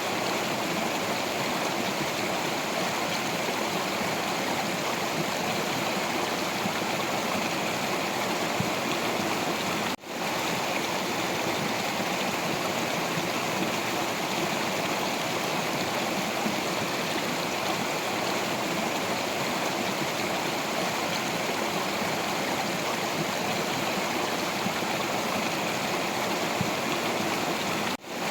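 Stream water flowing over rocks, a steady rushing and babbling that cuts out for an instant twice, about ten seconds in and near the end.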